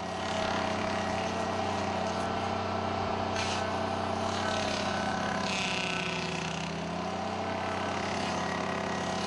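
Dingo mini loader's engine running steadily, driving the hydraulic stump grinder attachment as it grinds a stump. There are a couple of short bursts of cutting noise, and the engine note sags briefly a little past halfway as it takes load.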